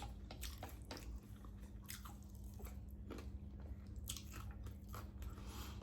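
A person chewing food close to the microphone, with faint scattered crunches, over a faint steady hum.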